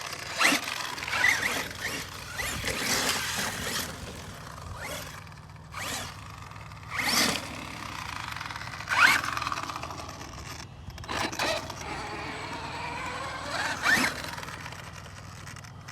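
Arrma Mojave 6S RC truck's brushless electric motor whining as it is driven, its pitch rising and falling repeatedly with the throttle, with loud surges about a second in, around seven and nine seconds in, and near the end.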